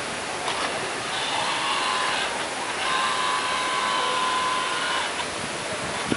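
Motorboat underway: a steady rush of engine and water noise, with wind on the microphone. A high steady whine comes in about a second in and again for about two seconds in the middle.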